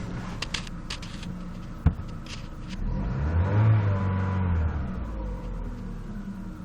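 Chevrolet Cruze 1.6-litre four-cylinder petrol engine, five minutes after starting, idling with a few sharp clicks, one loud click about two seconds in. About three seconds in it is revved once, its pitch rising and then falling back to idle.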